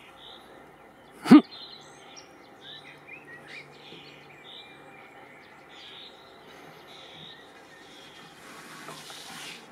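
Birds chirping and calling in the surrounding trees, with one short, loud thump a little over a second in.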